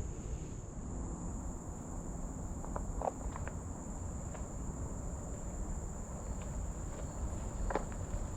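Steady high-pitched insect drone, crickets or cicadas singing without a break, over a low rumble, with a few faint soft clicks near the middle and the end.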